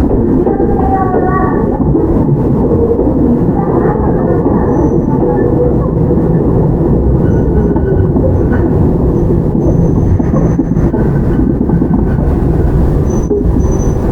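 Toyama Chiho Railway 17480-series electric train (ex-Tokyu 8090, field-chopper control) running between stations, heard from inside the car: a steady, loud rumble of wheels on the track and running gear.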